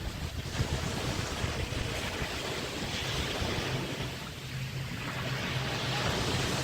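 Small waves breaking and washing on the Chesapeake Bay shore, swelling twice, with wind rumbling on the microphone.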